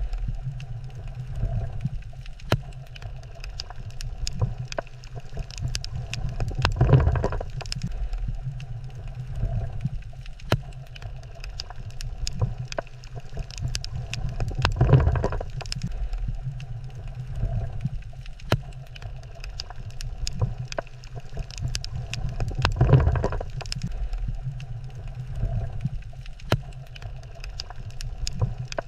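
Underwater sound at a coral reef: a steady low rumble scattered with sharp clicks, and a louder rushing swell about every eight seconds.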